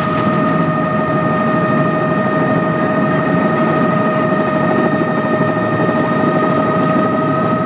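Helicopter running steadily, a high whine held on one pitch over a dense, unbroken low rumble.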